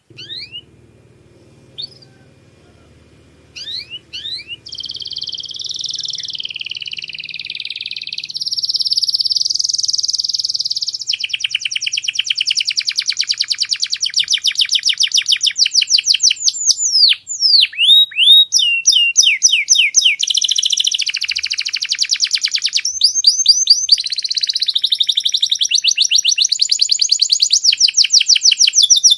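Domestic canary singing: a few short rising chirps, then from about four seconds in a long unbroken song of rolling trills and fast runs of repeated notes, changing phrase every second or two.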